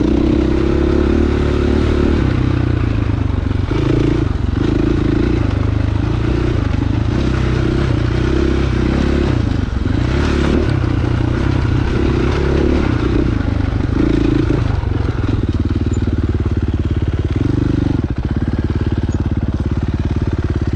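Dirt bike engine running on a trail ride, its pitch rising and falling repeatedly as the throttle is opened and closed.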